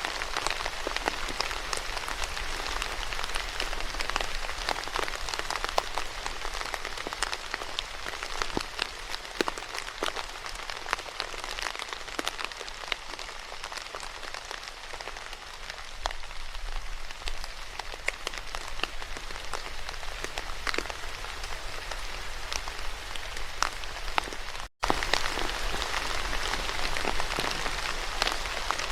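Steady rain falling on a hard surface, with many separate drops tapping distinctly through the hiss. Near the end the sound cuts out for an instant and then resumes.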